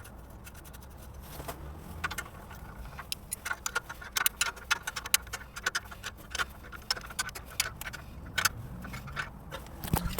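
Irregular run of sharp clicks and light scrapes from small objects or tools being handled, starting about two seconds in and busiest through the middle, over a faint low hum.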